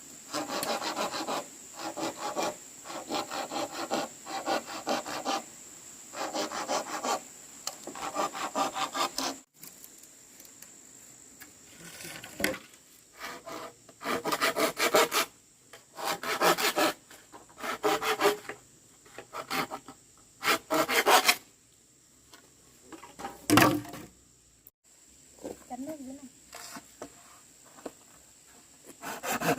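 Handsaw cutting wood in back-and-forth strokes, in runs of several strokes with short pauses between, and a longer break of a few seconds about a third of the way in. A single sharp knock comes a little past the middle.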